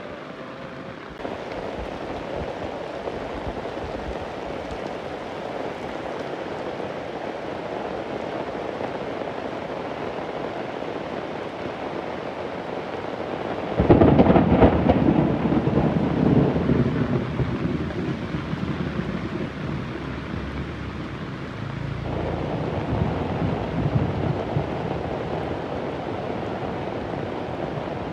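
Heavy rain falling steadily, with a sudden thunderclap about halfway through that rumbles on for several seconds as it fades.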